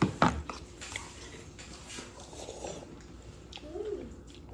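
Two sharp knocks close together at the start, then faint scattered clicks, with a short rising-and-falling voice sound near the end.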